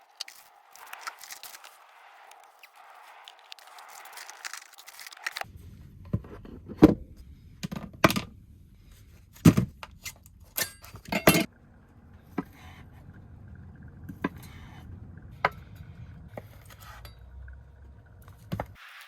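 Cookware and utensils being handled in a small van kitchen: a soft hiss for the first few seconds, then a string of sharp clinks, knocks and scrapes over a low hum.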